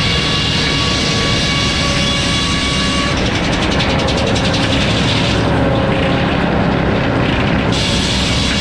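Sawmill's 52-tooth F-pattern circular blade running at speed with a steady ringing whine of several tones over heavy mechanical noise. The sound changes between about three and seven and a half seconds in, with the top end dropping away.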